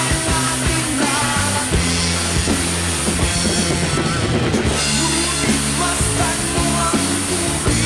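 Drum kit played along to a rock song, with steady driving beats over bass and guitar.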